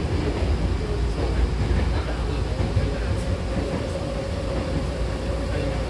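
Steady low rumble of a Hankyu Takarazuka Line electric train car, with a faint steady whine that firms up partway through.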